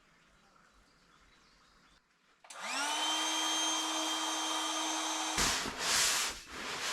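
A small electric blower motor, like a portable air pump, starts about two and a half seconds in and spins up to a steady whine. It runs for about three seconds, then stops, followed by a second or so of rushing air.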